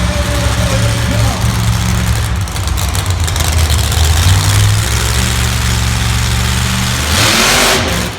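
Monster truck engine running with a steady low drone, then a loud rush of noise with the pitch shifting about seven seconds in.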